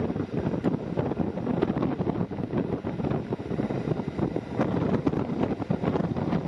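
Running noise of a moving train with wind buffeting the microphone: a steady, ragged rumble.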